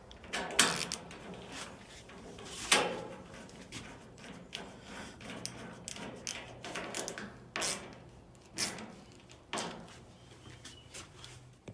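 Irregular knocks and clunks from handling a dryer's sheet-metal panels and parts during reassembly, with about five sharper knocks among softer rattles and clicks.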